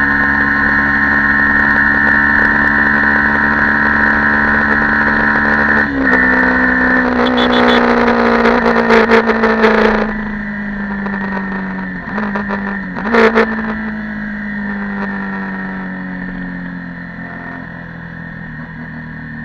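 Yamaha YZF-R15 V2.0 single-cylinder engine through its stock exhaust, pulling steadily while riding. About six seconds in the note steps, followed by a few seconds of rough, gusty noise. Then the throttle closes and the revs fall, with two brief blips around twelve and thirteen seconds, and the engine winds down as the bike slows.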